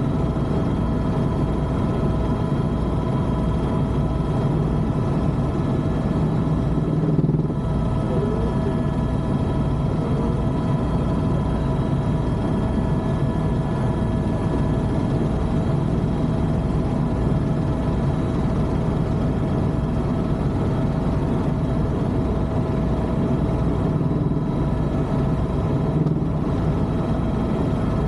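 Tour helicopter in flight, heard from inside the cabin: a steady engine whine with several fixed tones over the regular low beat of the rotor.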